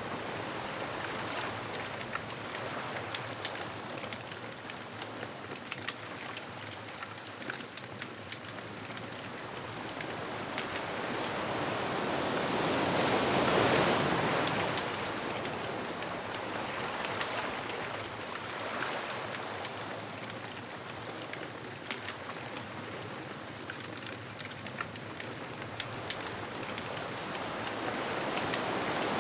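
Ocean waves breaking and washing up the beach, one wave swelling to a peak about halfway through and another building near the end, with light crackling from a bonfire throughout.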